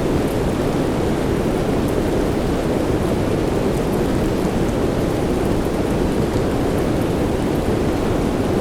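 Steady rain sound, an even, deep hiss with no breaks or swells, and a few faint light ticks on top.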